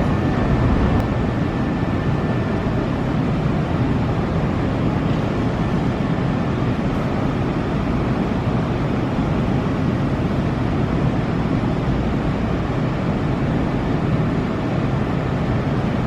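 Nankai electric train rolling at the platform, a steady rumble with a faint thin tone that fades out about six seconds in.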